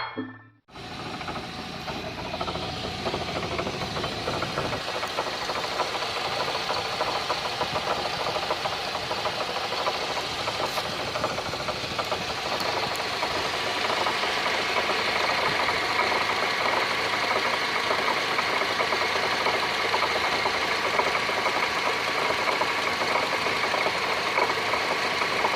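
Ford Focus running with a steady grinding noise, which comes from a broken piece jammed inside its rear drum brake.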